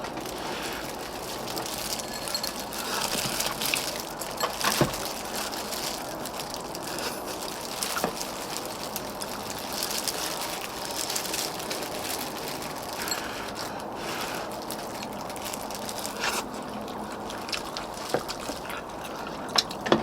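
A pot of gamjatang (pork-bone stew) bubbling steadily, with a few sharp clicks of spoon or chopsticks on the bowl.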